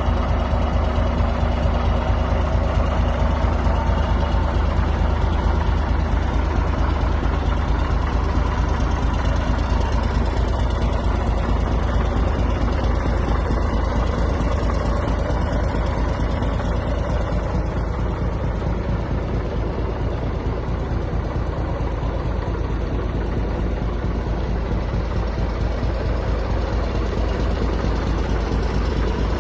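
DAF 95XF 430 truck tractor's diesel engine idling steadily, a low even running sound with no revving.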